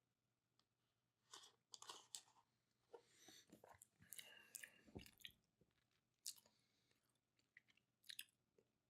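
Faint sounds of a chocolate lupine drink being opened and tasted: a run of small clicks, crackles and mouth sounds, with a dull knock about five seconds in.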